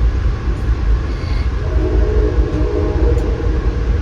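Amtrak passenger train's low rumble, heard from on board, with a chord of horn tones sounding for a second or two in the middle.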